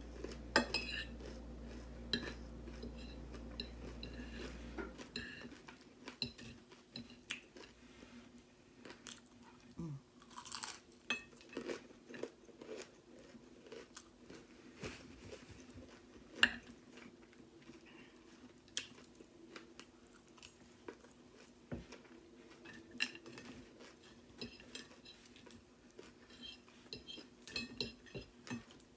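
A person chewing and crunching crispy breakfast food close to the microphone, in irregular bites, with occasional sharp clicks like cutlery on a plate. A low hum underneath stops about five seconds in.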